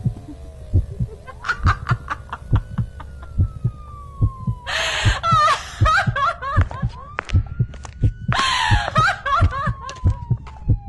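Heartbeat sound effect thumping steadily about twice a second, under slow, eerie gliding tones. Three short, harsh vocal-like bursts cut in about a third of the way through, past the middle and at the very end.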